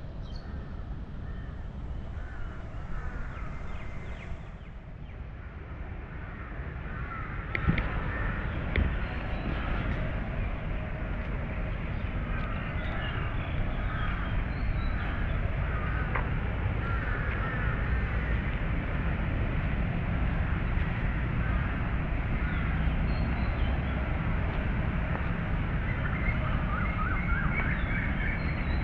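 Many birds chirping and calling over a steady low rumble of distant city traffic.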